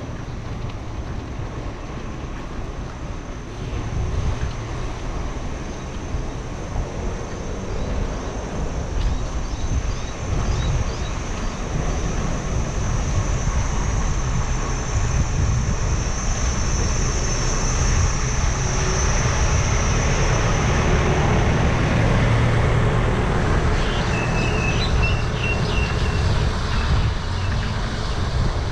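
Wind rushing over the camera microphone and road rumble while riding a bike, growing slowly louder, with a thin steady high whine coming and going in the middle.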